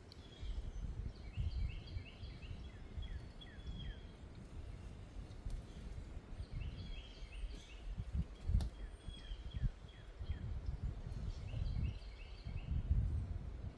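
Wind gusting against the microphone in low rumbles, with a songbird singing a short phrase of quick high notes three times, about five seconds apart.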